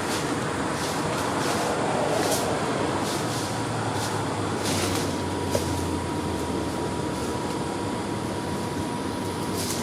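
Steady mechanical running noise of an ADtranz/Bombardier Variotram low-floor tram, with scattered brief rattles. A faint steady whine comes in a few seconds in and stops shortly before the end.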